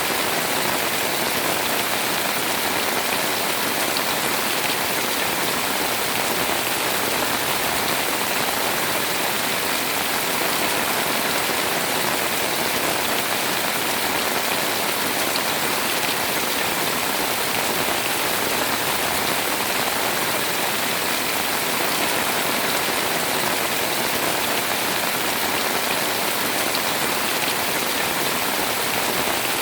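Heavy rain pouring down on a house in a steady, unbroken hiss.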